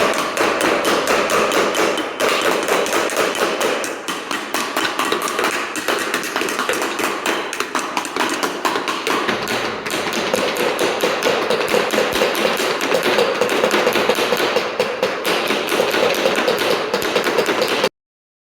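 Rapid, steady knocking, several knocks a second, running on without a break and then cutting off suddenly near the end.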